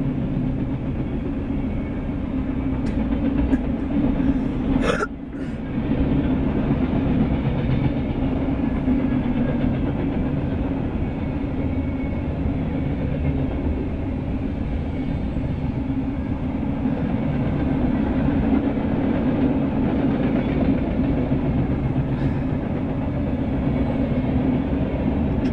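Freight train of boxcars, covered hoppers and tank cars rolling past, a steady rumble of steel wheels on rail heard from inside a car. A single sharp click comes about five seconds in.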